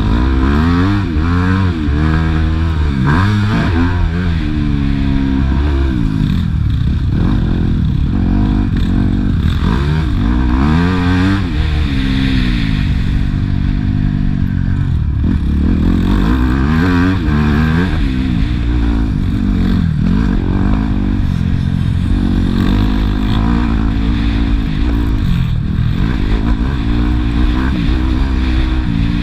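Motocross bike engines revving hard, their pitch climbing and dropping again and again every second or two as the bikes accelerate, shift and back off.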